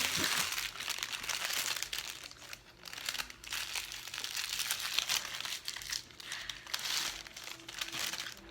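Food packaging crinkling and rustling as it is handled, with many small crackles that come and go, easing off briefly about three seconds in.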